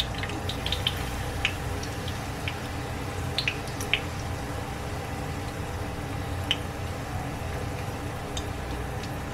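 Batter-coated chili peppers frying in shallow oil in a pan: a soft, even sizzle with scattered small pops and crackles. A steady low hum runs underneath.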